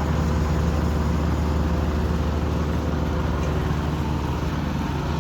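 Heavy construction machine's engine running at a steady speed, a constant low drone with no revving.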